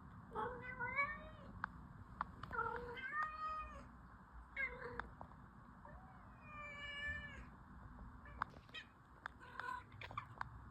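Domestic cat meowing repeatedly: about five meows with bending pitch, the longest drawn out a little past the middle. Faint scattered clicks sound between the calls.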